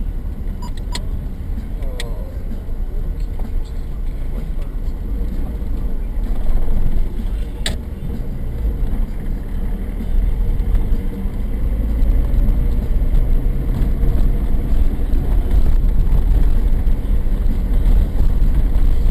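Car driving, heard from inside the cabin through a dashcam microphone: a steady low engine and road rumble that grows louder from about ten seconds in, with a few faint clicks.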